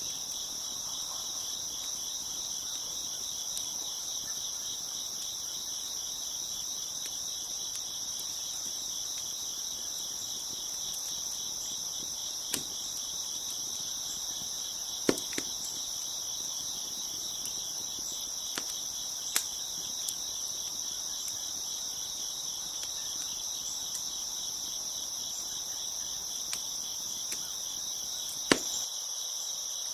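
A dense chorus of crickets chirping steadily in high, pulsing tones, with a few sharp pops and snaps from a crackling wood fire scattered through it, the loudest pop near the end.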